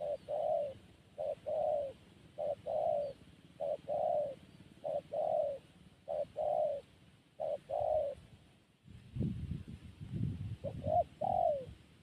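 A dove cooing over and over, each phrase a short note followed by a longer, arched coo, repeating about every second and a quarter. Near the end the phrases break up and a low rumble comes in under a last couple of coos.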